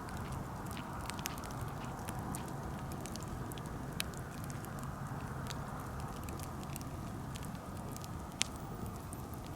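Wood campfire burning with a steady low rush and frequent small crackles, with a louder pop about four seconds in and another sharp pop near the end.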